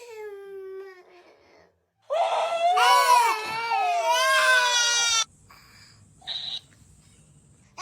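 A young child crying and wailing. A short falling cry comes at the start, then a loud, high, wavering wail lasts about three seconds from about two seconds in.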